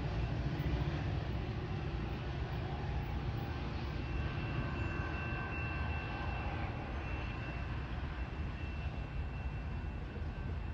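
Metra commuter train of bilevel cars pulling away, a low steady rumble of wheels on rails that slowly fades as it recedes. A faint high steady tone joins about four seconds in.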